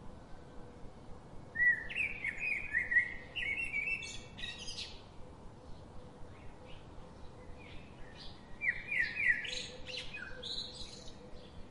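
A songbird singing two bursts of quick chirping notes, one starting about two seconds in and another near the ninth second, over faint steady outdoor background noise.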